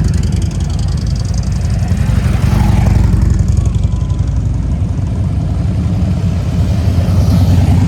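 Harley-Davidson V-twin motorcycle engine running loudly with an uneven, pulsing exhaust beat.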